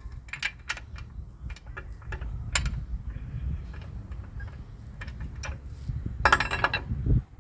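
Metal hand tools clicking and clinking, likely while adjusting the mini excavator's loose track, with a louder metallic clatter about six seconds in, over a low rumble.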